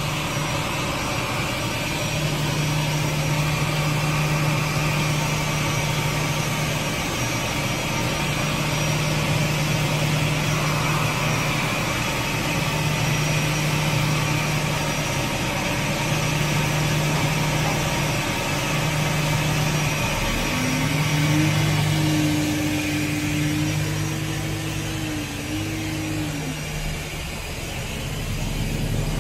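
Steady engine drone during an Airbus A321 pushback. Partway through, a higher tone rises, holds for about five seconds and then drops away.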